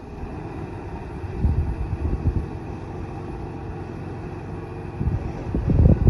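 Komatsu D20A crawler bulldozer's diesel engine running under load while working soil, with spells of heavier low rumbling about a second and a half in and again near the end.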